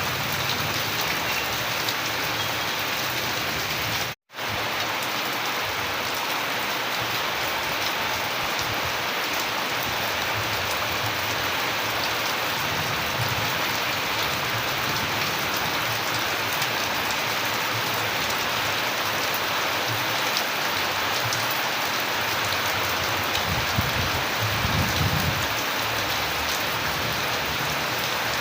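Steady heavy rain: a dense hiss of drops with fine pattering ticks. The sound cuts out completely for an instant about four seconds in, and a soft low rumble rises briefly near the end.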